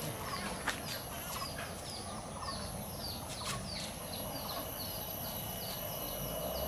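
A bird calling in a steady series of short, falling chirps, about three a second, with a couple of faint clicks.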